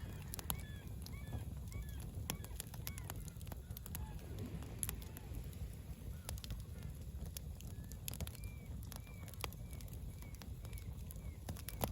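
Wood fire crackling, with irregular sharp pops over a low rumble, while birds give short repeated calls in the background.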